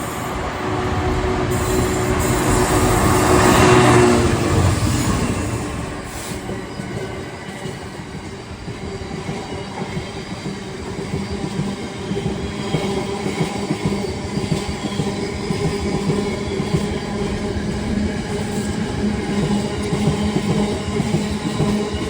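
Freightliner Class 66 diesel locomotive passing, its engine running loud and peaking about four seconds in, followed by the long train of freight wagons rolling by with a steady rumble and rhythmic clicking of wheels over rail joints.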